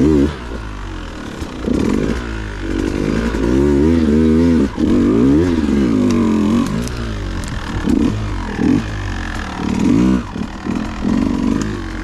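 Dirt bike engine revving up and down over and over as the throttle is worked on and off, with a few sharp knocks in between.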